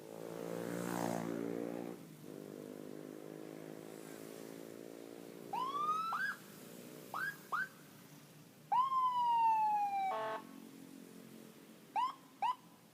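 Police car's electronic siren giving short rising whoop chirps, then one longer tone that slowly falls in pitch, then two quick chirps near the end. A low steady hum runs underneath, louder in the first two seconds.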